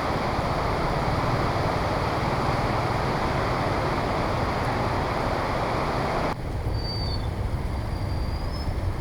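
Heavy rain and wind making a loud, steady rush with a low rumble underneath. About six seconds in it drops abruptly to a quieter rain sound, with a few brief high squeaks near the end.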